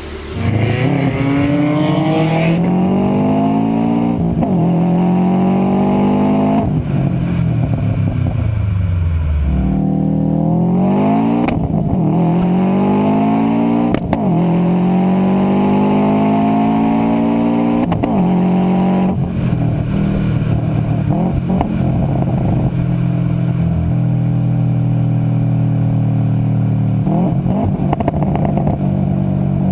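Sports car engine and exhaust accelerating hard through the gears, the pitch climbing and dropping back at each upshift, about five times. Near the middle it winds down once before pulling again, and it then settles into a steady drone at constant revs.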